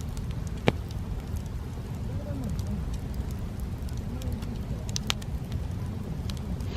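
Wood fire crackling, with small ticks and two sharp pops, the loudest about a second in and another near the five-second mark, over a steady low rumble.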